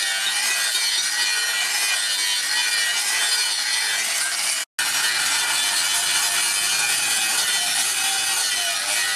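Handheld angle grinder with a flap disc grinding the edge of a steel knife blank cut from a tractor disc-plough blade: a steady, loud, high whining rasp of abrasive on steel. The sound cuts out for an instant about halfway through, then carries on the same.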